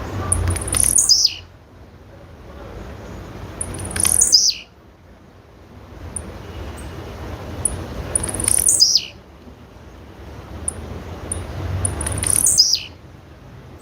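Female blue-black grassquit (tiziu) calling: a high call that falls steeply in pitch over about a second, repeated four times roughly every four seconds. Short faint high pips come between the calls, over a hiss that swells before each one.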